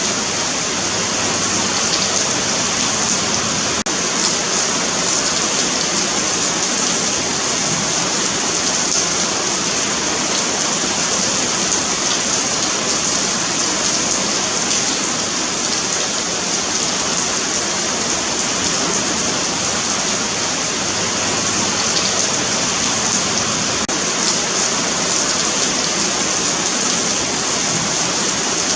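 Steady rain falling on a sidewalk, a dense even hiss of drops with faint scattered ticks.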